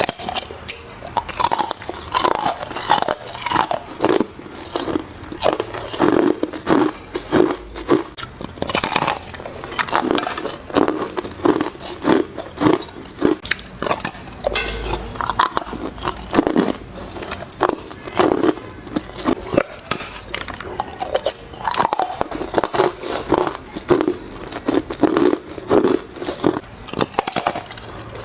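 Hard ice cubes being bitten and crunched between the teeth, close to the microphone: a dense run of sharp cracks, several a second.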